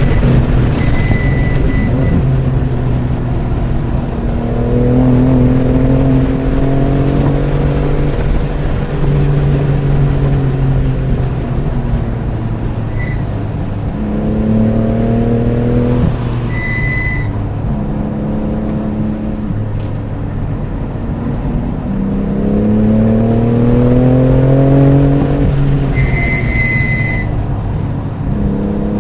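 BMW F80 M3 Competition's twin-turbo straight-six running hard, heard from inside the car on track. Its pitch climbs under acceleration four times and drops away in between at lifts and shifts. A few brief high squeals come through, most clearly about two thirds of the way in and near the end.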